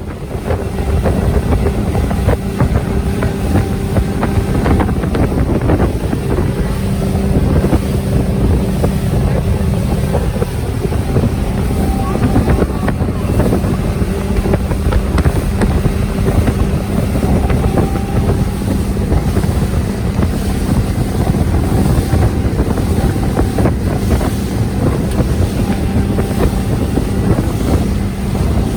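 A 300 hp Yamaha outboard drives a bay boat under way at a steady pitch, with wind buffeting the microphone. The sound gets much louder just after the start, then holds steady.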